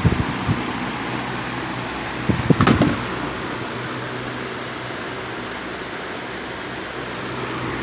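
Electric box fan running with a steady whoosh and a low hum. A brief knock and click comes about two and a half seconds in.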